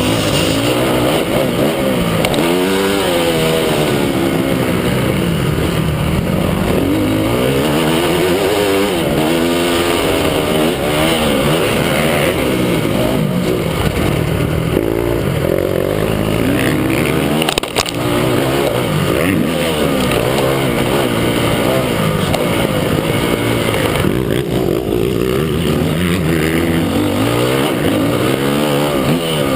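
Several motocross bike engines revving up and down as they ride the track, their pitch rising and falling over and over, with more than one engine heard at once.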